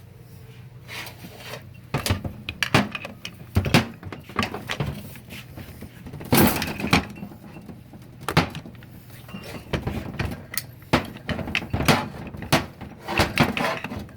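Irregular knocks and clinks of metal transmission parts being handled and tapped during teardown of a 4L60-E automatic transmission, the loudest about six and a half seconds in, over a faint steady low hum.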